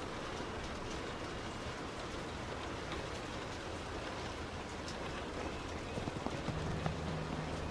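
Heavy rain pelting a moving car, a dense steady hiss with scattered drop ticks. A low steady hum joins about six and a half seconds in.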